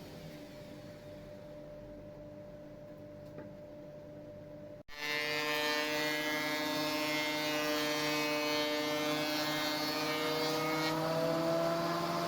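An electric power tool's motor whines steadily. A fainter hum cuts off abruptly about five seconds in, and a louder whine follows, its pitch rising slightly near the end.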